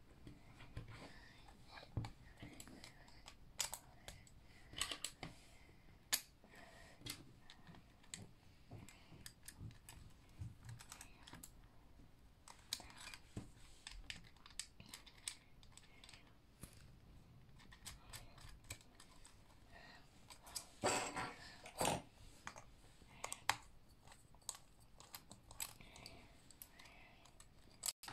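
Meccano Junior construction-toy parts clicking and clattering by hand as the model is assembled, with irregular small clicks and a brief busier run of knocks about three quarters of the way through.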